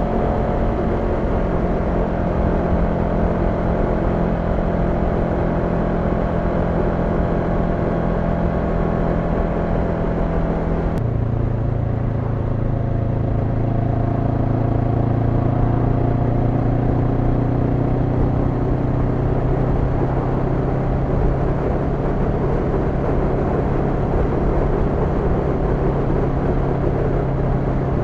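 Honda NX500's parallel-twin engine running steadily under way, with wind and road noise. About a third of the way through its note drops suddenly to a lower pitch, then holds steady again.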